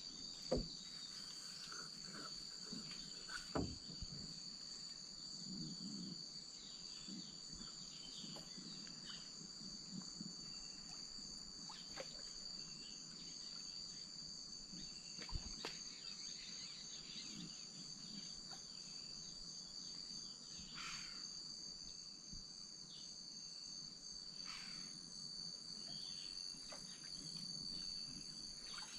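Steady, high-pitched chorus of insects. A few sharp knocks stand out, the loudest about half a second in, others near three and a half and fifteen seconds.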